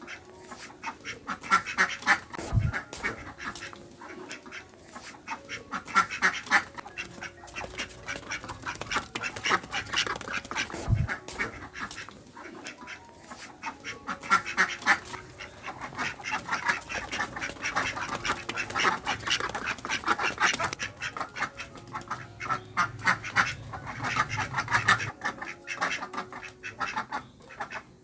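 Ducks quacking in runs of quick, repeated quacks, a new run every few seconds.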